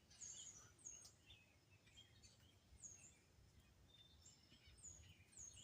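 Faint, scattered bird chirps: short high-pitched calls, each a quick downward slide, repeating every second or two over a quiet background.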